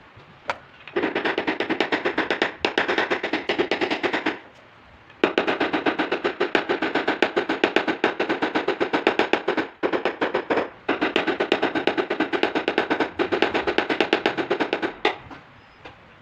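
Rapid light tapping on a car's sheet-metal panel, about ten taps a second, in three runs of a few seconds each with short pauses between: a tap-down tool knocking down high spots along a body line during paintless dent repair.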